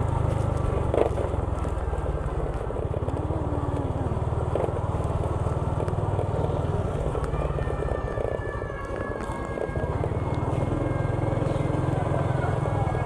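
Small motorcycle engine running steadily on the move, with road noise and a brief easing about nine seconds in.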